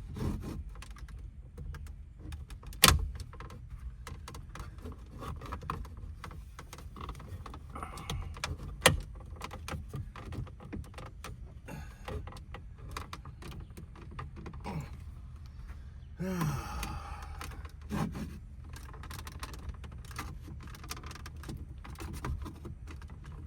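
Plastic dash trim and the instrument cluster clicking and rattling as they are handled and pried at by hand, with a few sharp clicks, the loudest about three and nine seconds in. A short grunt about sixteen seconds in.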